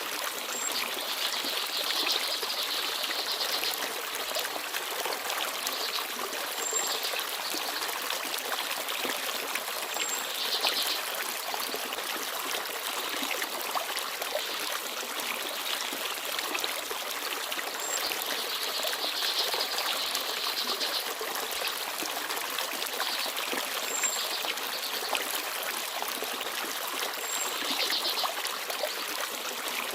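Forest stream babbling and trickling steadily, with brief, thin high chirps of small birds every few seconds.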